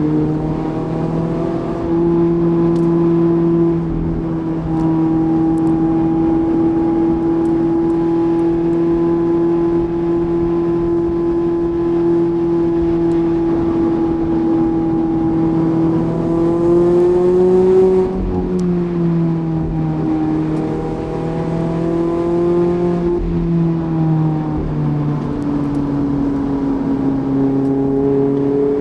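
Mazda MX-5's 1.5-litre four-cylinder engine under way with a manual gearbox, holding steady revs, then climbing for a couple of seconds about two-thirds through before dropping sharply, and rising again near the end.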